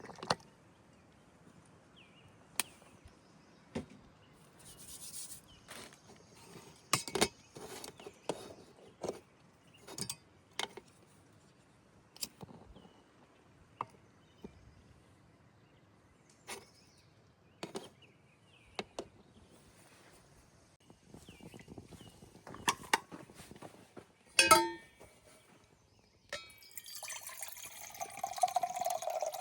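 Camp cookware and utensils being handled: scattered clinks and knocks, several louder ones together a little before the end. Near the end a steady pouring begins, liquid running into a container.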